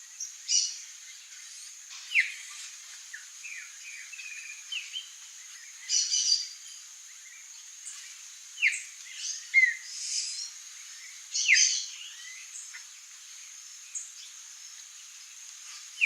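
Songbirds calling: short chirps and quick downward-sliding notes every second or two, over a steady high hiss.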